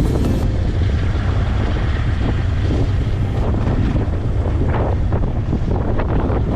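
Wind buffeting the microphone over the steady low rumble of a quad bike's engine while riding.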